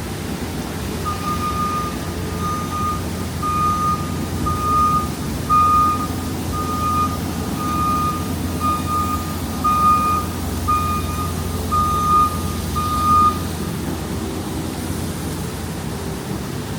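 A truck's reversing alarm sounding about a dozen single-pitched beeps, roughly one a second, then stopping, over a steady rumble of street traffic and wind.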